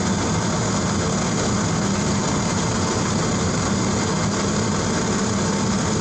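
Metal lathe running steadily under power feed, taking a threading pass of 12 threads per inch on a new hydraulic cylinder rod.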